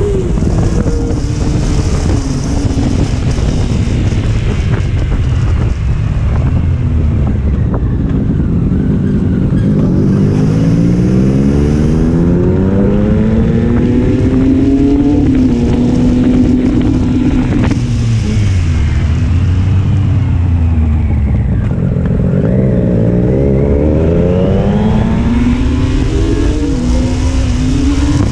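Triumph Street Triple's inline-three engine and exhaust under way, revving up and dropping back again and again as the bike accelerates, shifts and slows.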